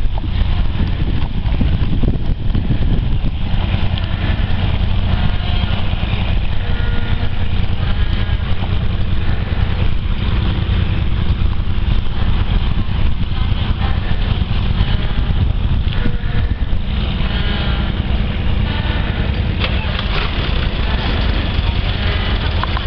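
Motor tugboat engines running steadily with a deep drone, working under load while towing.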